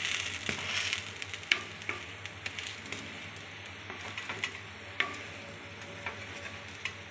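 Besan chilla sizzling in oil on a tawa griddle, with a steady hiss that is strongest in the first second. A spatula scrapes and taps against the griddle as the chilla is turned and pressed, with sharp clicks about a second and a half in and again about five seconds in.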